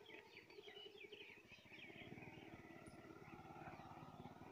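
Faint background birds chirping in short high calls, with a faint low pulsing sound starting about halfway through.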